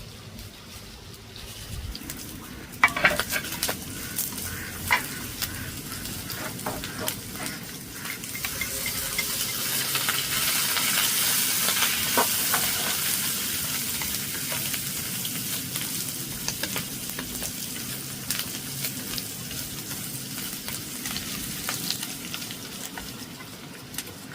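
Eggplant frying in hot oil in a pan: a steady sizzle that swells about eight seconds in and slowly eases off, with sharp clicks and scrapes of a utensil against the pan through the first half.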